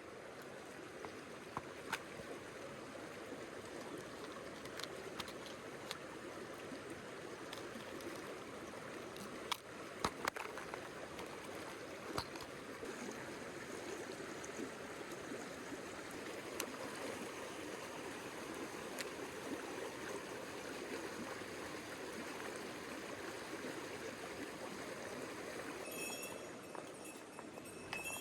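Mountain stream water rushing steadily, with scattered sharp clicks, the loudest about ten seconds in. Near the end a few short high tones and clicks come in over the water.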